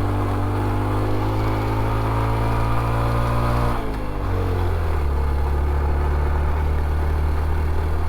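Honda CT125 Trail 125's single-cylinder engine running under way at steady revs; about four seconds in its note falls and then holds steady at a lower pitch.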